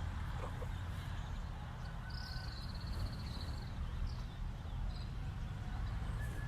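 A bird's rapid chattering call, high-pitched, lasting about a second, starting about two seconds in, with a few short chirps afterwards, over a steady low rumble.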